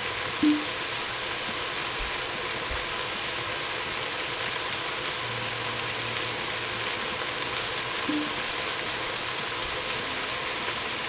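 Vegetables frying in a hot pan, a steady sizzle, with a brief louder sound about half a second in.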